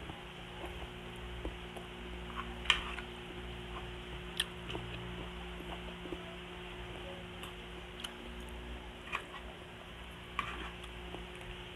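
Close-miked eating sounds of a person chewing a meal of rice and fried fish eaten by hand. About five sharp, wet mouth clicks or smacks are scattered through, over a faint steady hum.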